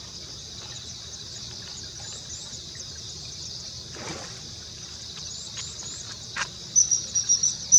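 Steady high-pitched insect chorus with scattered short chirps, then near the end a bird starts calling in a quick run of loud, high, sharp chirps.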